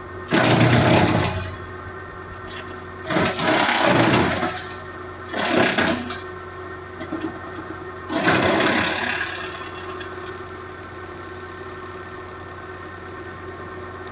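Hydraulic wood chipper running steadily, with four loud, harsh bursts of chipping as material is fed through, the first about half a second in and the last near the middle.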